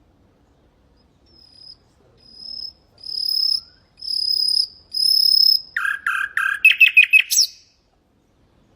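Common nightingale singing one song phrase. About a second in come a series of pure whistles on one high note, each louder than the last. They run into a fast string of lower repeated notes that ends in a quick rising sweep.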